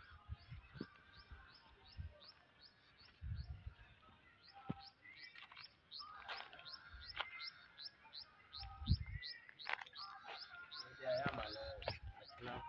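Birds chirping, one repeating short, high, falling chirps at about three a second, with other scattered calls. Occasional low thumps.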